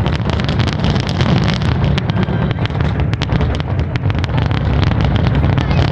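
Fireworks going off in a dense barrage: many rapid, overlapping bangs and crackles over a continuous heavy rumble.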